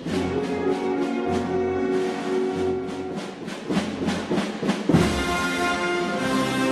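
Wind band music: brass chords held over repeated drum strokes, in the manner of a Holy Week processional march.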